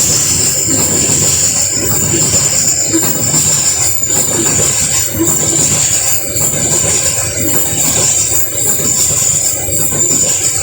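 Babaranjang coal train rolling past close by: a loud, steady rush of wheels on rail with a thin high whine over it and a regular beat about once a second.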